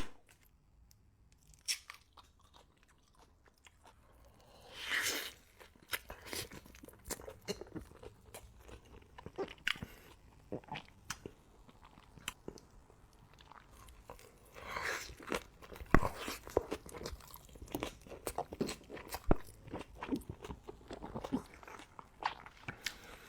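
Close-miked eating: crunchy bites and chewing, with many sharp crackles and longer crunches about five seconds in and again around fifteen seconds.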